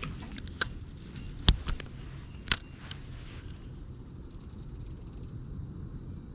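Clicks and knocks of fishing gear being handled in a kayak, with two louder knocks about a second apart, then a steady low rumble of background noise.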